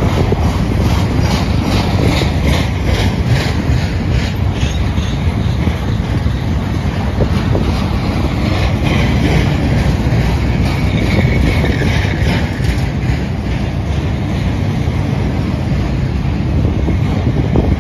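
Rail-train cars loaded with long welded rail rolling past close by: a steady wheel-on-rail rumble with quick rhythmic clicking of wheels over the track. A faint high wheel squeal comes in for a few seconds near the middle.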